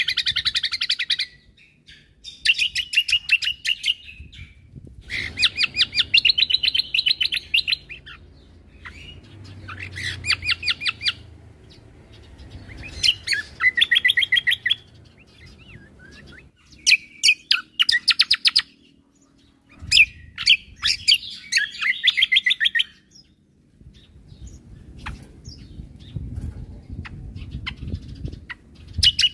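Cucak kombo (kecial kombo) singing its 'tembakan' song: rapid, stuttering trills of fast-repeated high notes in bursts of one to three seconds, with short pauses between bursts.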